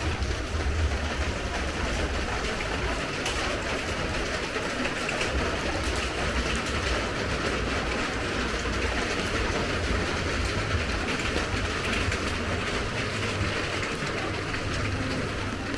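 Steady rain falling, an even hiss with dense fine patter, over a constant low rumble.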